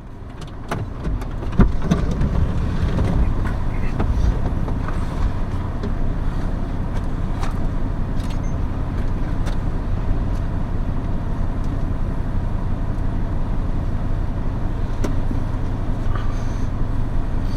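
Steady rumbling noise inside a car, with a few scattered sharp ticks. It builds up over the first two seconds, then holds even.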